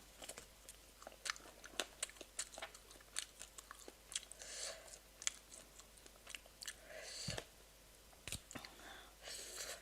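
Faint close-up eating sounds: chewing with many small wet mouth clicks and a few brief breathy slurps, as someone eats passion fruit pulp.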